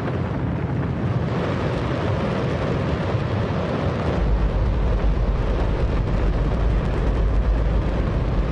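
Hydrogen-oxygen rocket engine firing: a continuous loud roar with a deep rumble that grows heavier about four seconds in.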